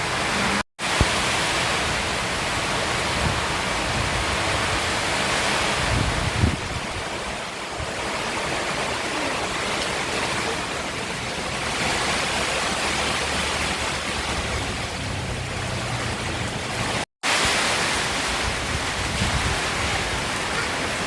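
Strong typhoon wind and heavy rain: a steady rushing hiss that swells and eases, with wind rumbling on the microphone. The sound cuts out for a moment twice.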